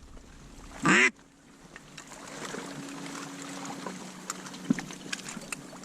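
A single short duck quack about a second in, falling in pitch. A faint steady low hum follows.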